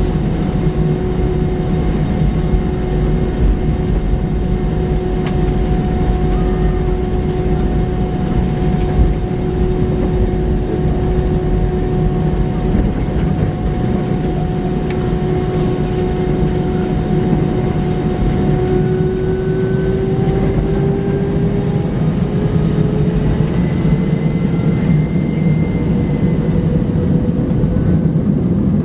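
Airbus A320 jet engines running with a loud low rumble and a steady whine that starts to rise slowly in pitch about two-thirds of the way through, as the engines spool up.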